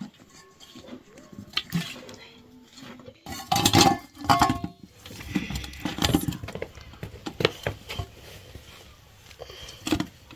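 Metal pots and utensils knocking and clinking against each other, with the loudest clatter and a brief ringing about four seconds in.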